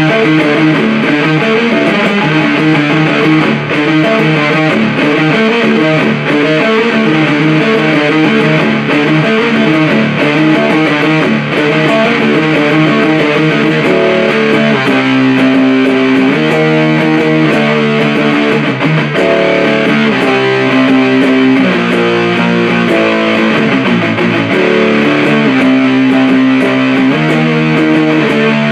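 Electric guitar played through a 77 Fuzz Blender fuzz pedal into an Orange Super Crush 100 amp, heavily distorted: busy riffing for about half the time, then a slower riff of held, sustaining notes.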